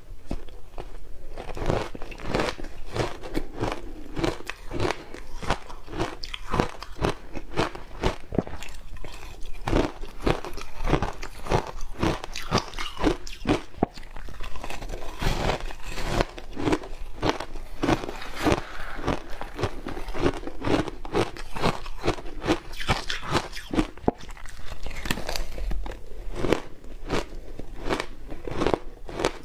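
Ice coated in matcha green tea powder being bitten and chewed: a continuous run of crisp crunches, several a second.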